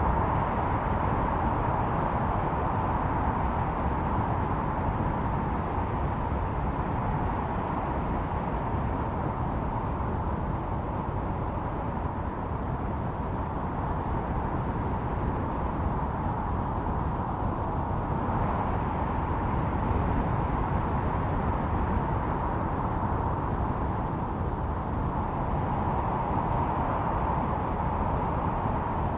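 Blizzard wind blowing steadily, with a hollow howling tone that slowly swells and eases over several seconds.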